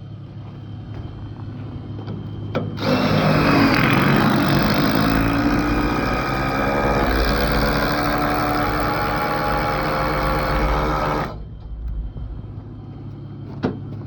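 Cordless brushless impact with a 9/16 socket running for about eight seconds, starting about three seconds in, spinning a speed ratchet binder to tighten the tie-down chain.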